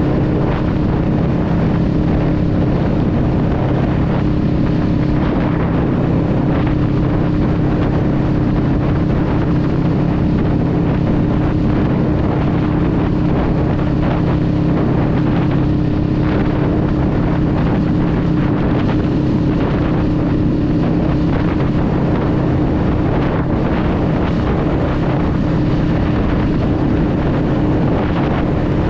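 Honda Rebel 500's parallel-twin engine running at a steady cruise, its note holding even throughout, with wind noise on the microphone.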